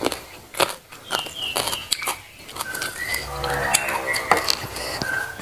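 Close-miked crunching and chewing of raw papaya leaf stalks, a string of sharp crisp crunches, with a short low hum of the voice partway through.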